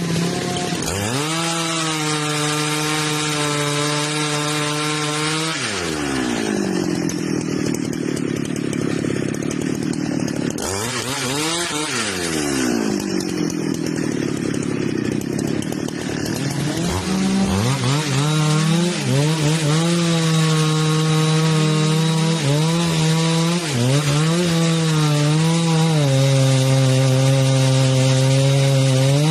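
Chainsaw running at high revs, cutting wood. Twice its speed drops away to a lower, rougher run and then climbs back up, and near the end the pitch dips briefly several times as the chain works through the cut.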